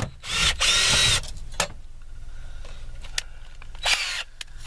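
Power drill running in short bursts, one of about a second near the start and a shorter one near the end, with clicks and knocks between.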